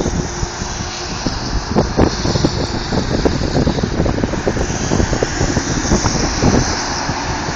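Motor vehicle noise: a loud, steady low rumble with many irregular knocks and bumps running through it.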